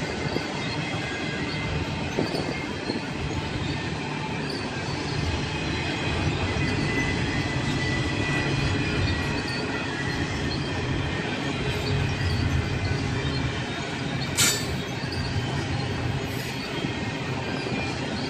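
Train rolling past, a steady rumble of steel wheels on rail with faint thin squealing tones. There is one sharp click about fourteen seconds in.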